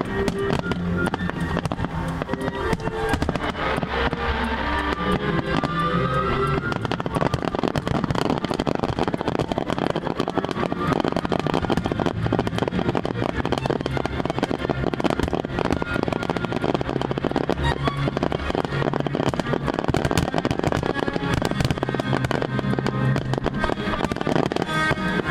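Aerial fireworks crackling and popping in a dense, continuous stream, with music playing underneath. The music comes through most clearly at the start and near the end.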